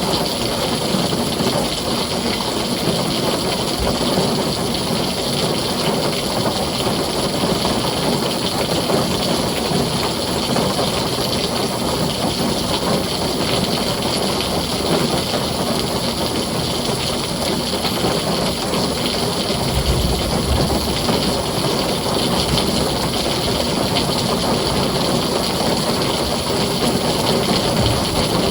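Heavy rain pouring steadily on a tin roof, with a brief low rumble of thunder about twenty seconds in.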